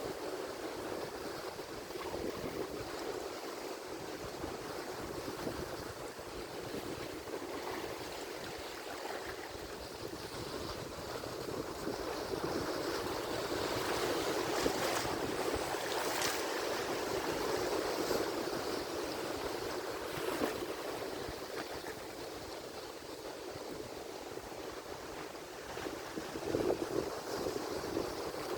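Atlantic Ocean surf: a continuous wash of breaking waves that swells louder around the middle and surges again near the end.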